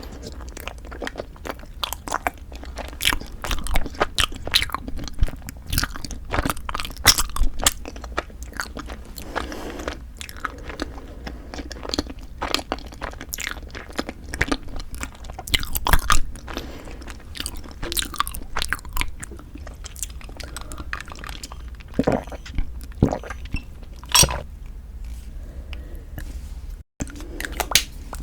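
Chewing and biting on Kiri cream cheese and ice rice cake, heard as many sharp, irregular crunches and mouth clicks. The sound drops out for an instant near the end.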